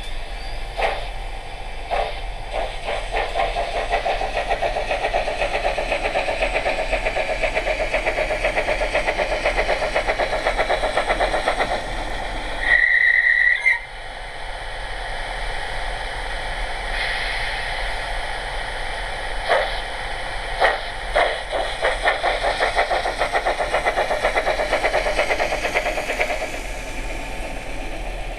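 Trix 22115 HO-scale Union Pacific Big Boy 4000 model's sound decoder playing steam-locomotive exhaust chuffs that start as separate beats and quicken to a rapid steady beat as the model runs. A short whistle blast sounds about halfway through, and the chuffing then starts slow and quickens again.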